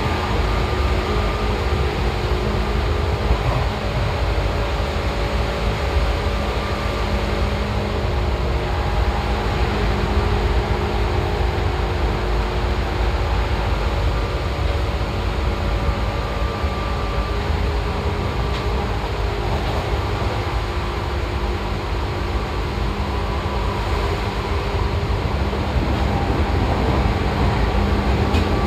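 Old Seibu 2000 series electric commuter train running at a steady speed, heard from inside the car: a continuous low rumble of wheels on rail with several steady whining tones from the drive that fade in and out.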